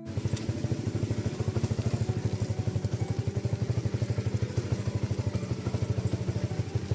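A small engine running steadily with a rapid, even low putter of about a dozen beats a second.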